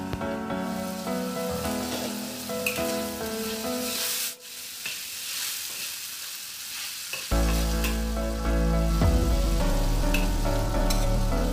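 Chicken gizzards sizzling and frying in a wok as a metal spatula stirs them, under background music. The music drops out for a few seconds around the middle, leaving the sizzling on its own.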